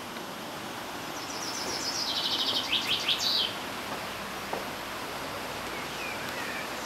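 A songbird sings one phrase over a steady outdoor background hiss. The phrase is a fast run of repeated notes that falls in pitch and ends in a short flourish about three seconds in.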